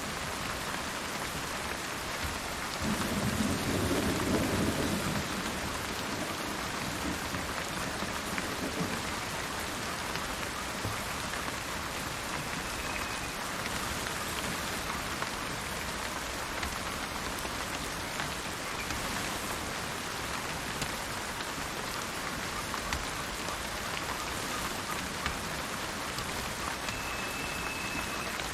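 Steady rain falling, with a low rumble of thunder swelling a few seconds in and fading over about two seconds.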